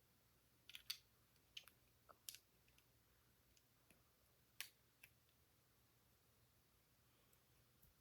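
A few faint, sharp clicks of plastic Lego bricks being handled and pressed together, scattered through the first five seconds, then only faint room noise.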